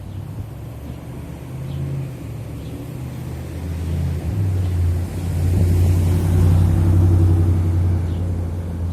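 A motor vehicle's engine humming as it approaches and passes, growing louder to a peak about two-thirds of the way through, then fading.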